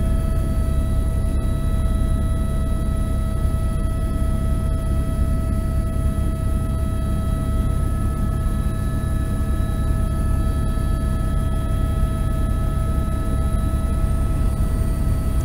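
Helicopter running steadily: a loud, unchanging low drone of rotor and engine with several constant high whining tones over it.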